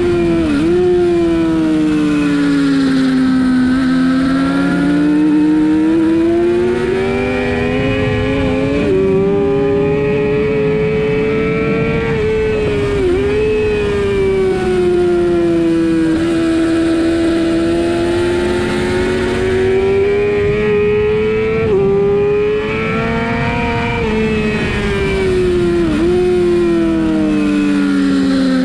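Sportbike engine ridden hard on a racetrack, heard onboard. Its pitch swells and sags over several seconds at a time, with a few sharp, momentary dips and jumps in pitch.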